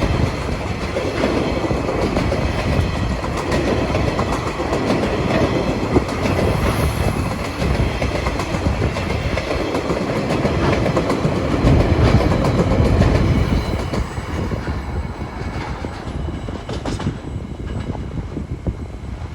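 Freight wagons of a container and empty log train rolling past, with steady wheel rumble and clickety-clack over the rail joints, fading away in the last few seconds.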